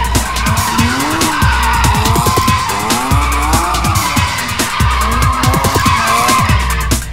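Car tyres squealing in a long, wavering screech as a car drifts sideways through corners.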